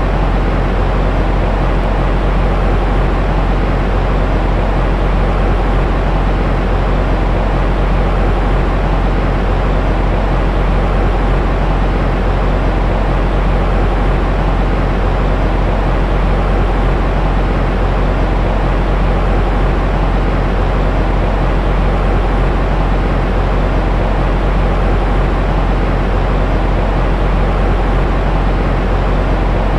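Steady white noise for soothing a baby to sleep, weighted heavily toward the bass so it comes across as a deep, even hush, with no change in level or character.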